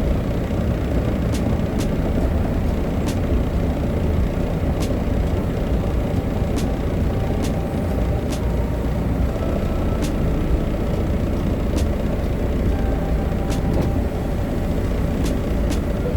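Semi truck's diesel engine idling steadily, with light ticks about once a second.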